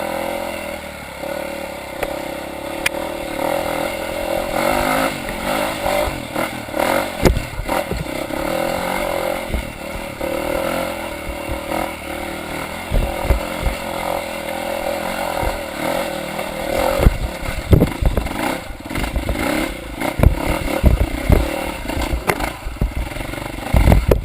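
Dirt bike engine revving up and down on the throttle while climbing a wet, rocky hill, ridden with no working clutch. Sharp knocks and clatter from the bike hitting rocks grow more frequent in the second half.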